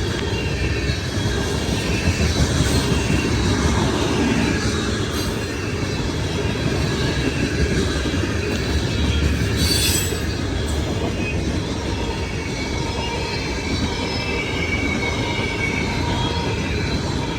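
Freight train cars rolling past, a steady rumble of steel wheels on rail with a high squeal from the wheels.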